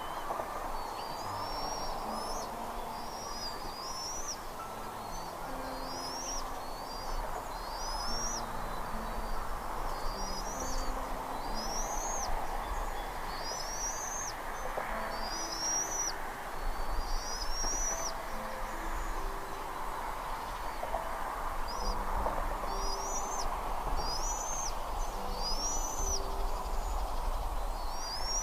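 Bald eagle calling: a long run of high, thin, arched chirps, roughly one a second, over a steady background rush. Short low tones at shifting pitches sound underneath.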